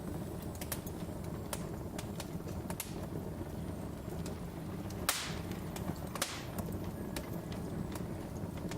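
Wood fire crackling: a steady low rumble of burning logs with scattered sharp crackles, and two louder pops about five and six seconds in.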